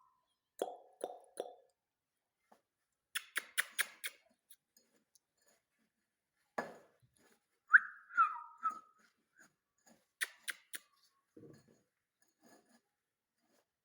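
Ringneck parakeet making a short whistle that rises then falls, amid scattered sharp clicks and a few short low calls.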